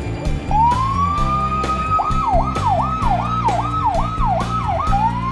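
Emergency vehicle siren: a wail rising and holding about half a second in, switching about two seconds in to a fast yelp of about two sweeps a second, then rising into a wail again near the end. Background music with a steady beat plays underneath.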